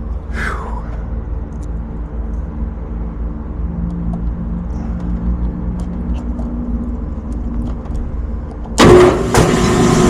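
Low rumble and hum of rooftop HVAC equipment running. About nine seconds in, a rooftop HVAC unit starts up abruptly, much louder, with a click just after, and runs on with a steady hum.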